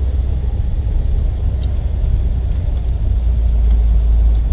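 Car engine and road noise heard from inside the cabin: a steady, deep rumble.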